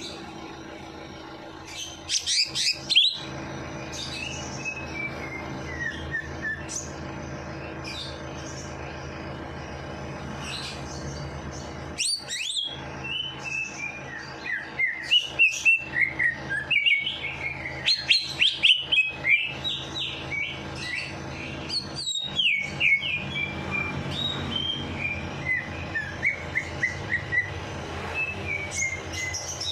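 Songbirds singing, with rapid runs of high chirps and falling twittering trills coming in loud bursts, over a steady low hum.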